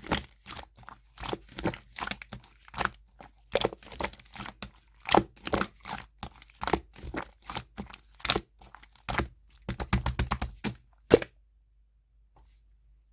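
Clear slime being pressed and stretched by hand, giving a run of sticky popping and crackling clicks as air pockets burst. The pops come quicker in a flurry near the end, then a last sharp pop, and the sound stops.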